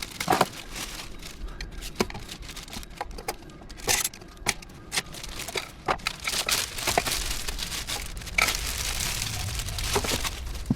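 Crinkling and rustling with scattered sharp clicks and knocks at irregular intervals.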